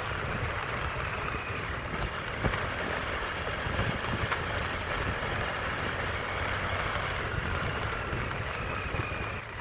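Motorbike running steadily on the move, heard as a continuous engine and road rumble.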